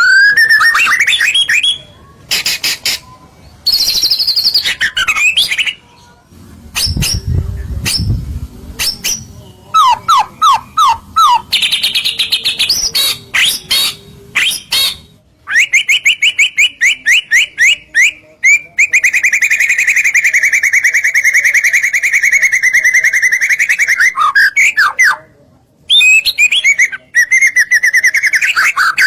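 White-rumped shama (murai batu) singing a loud, varied song in full gacor form, made of clear whistled glides and quick runs of repeated notes, with short pauses between phrases and a long buzzy rattle in the second half. A brief low rumble is heard about seven seconds in.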